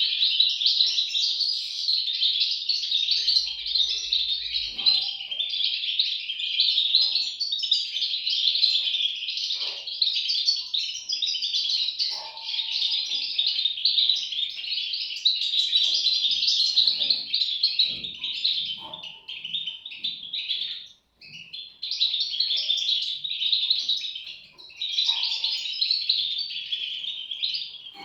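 European goldfinch chicks chirping continuously in a dense, high chorus, with a short break about 21 seconds in.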